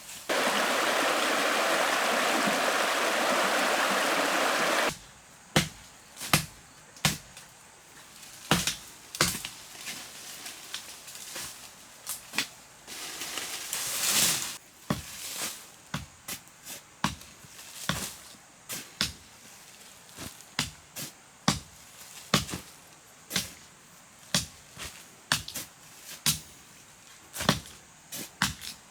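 A steady rushing noise for about five seconds, then repeated chopping blows on wood, roughly one a second, during work on a bamboo building.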